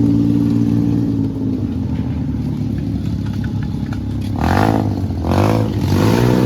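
A motor vehicle engine running steadily, then revving up and down several times in the second half.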